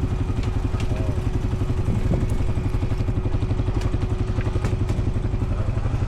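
Honda Foreman 520 ATV's single-cylinder engine idling steadily with an even, pulsing beat, and a few light clicks over it.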